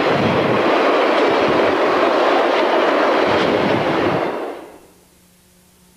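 Rack flatcars of a welded-rail train rolling past: the steel wheels run on the rail with a loud, steady rumble and irregular clatter. The noise falls away sharply about four and a half seconds in as the last car clears, leaving a faint steady hum.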